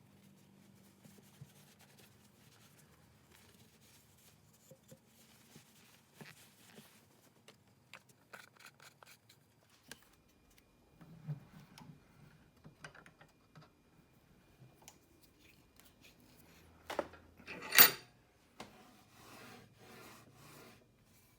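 Restored Stanley Bailey No. 5 jack plane handled and pushed across wood: scattered light clicks and scrapes, then one loud cutting stroke about three-quarters of the way in, followed by quieter rasping strokes.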